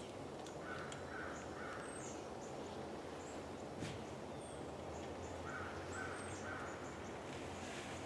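Birds calling outdoors: two runs of three short, evenly spaced calls, about five seconds apart, with faint high chirps scattered through a steady low background rumble.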